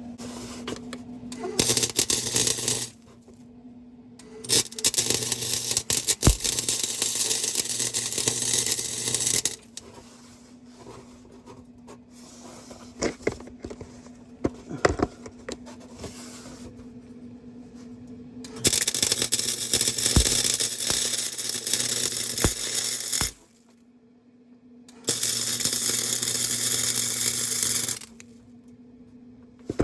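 Electric welder laying beads on a car exhaust pipe: four crackling arc bursts, each lasting one to five seconds, with a low electrical hum while the arc is running and quieter pauses between them.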